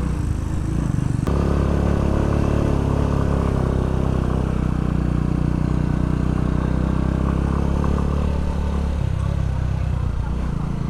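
Small single-cylinder motorcycle engine running steadily under way, its note dropping about nine seconds in.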